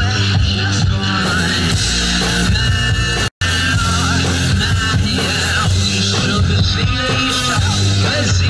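Loud rock music from a one-man band: guitar over a heavy bass and drum beat. The sound cuts out for an instant about three seconds in.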